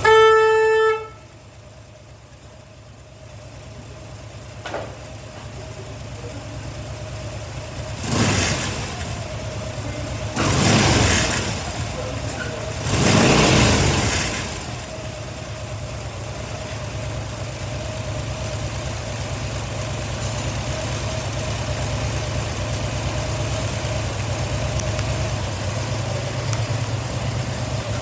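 Harley-Davidson Dyna Street Bob's V-twin idling, with a short horn beep in the first second and three quick throttle blips about 8, 10 and 13 seconds in, then settling back to a steady idle.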